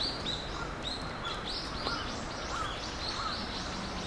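Small songbirds calling repeatedly with short, high, thin calls, several a second, with a few lower calls mixed in.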